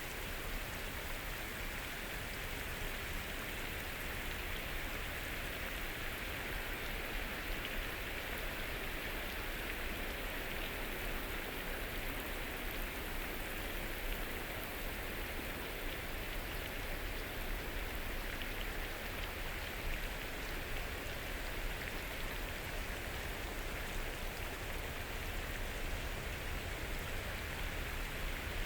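Steady rain falling on forest foliage: an even patter of many drops, without let-up.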